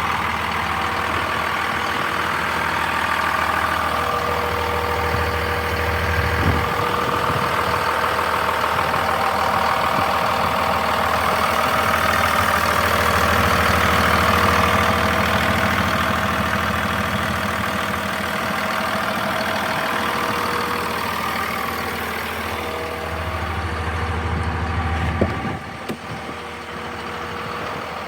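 2002 Dodge Ram 2500's 5.9-litre Cummins inline-six turbodiesel idling steadily. A sharp click comes about six seconds in, and a louder knock about 25 seconds in.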